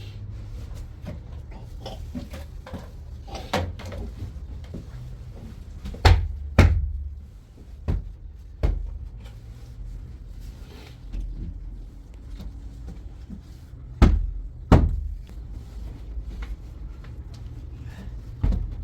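A run of sharp knocks and thuds, the loudest coming in two pairs about six and fourteen seconds in, over a low steady hum.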